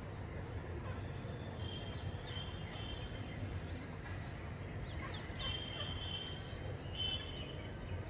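Several short, high bird calls, a few seconds apart, over a steady low rumble of background noise.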